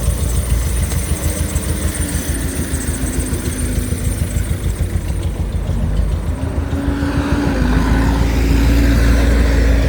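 Toyota 2SZ-FE 1.3-litre four-cylinder engine running on test, steady around idle, growing louder over the last few seconds as it picks up a little.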